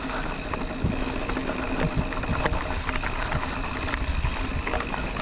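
Mountain bike in motion: tyres rolling and the bike rattling, with many small irregular knocks over a steady hum.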